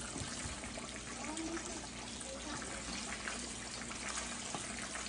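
Chicken pieces frying in a pan of hot oil: a steady sizzle with small crackles.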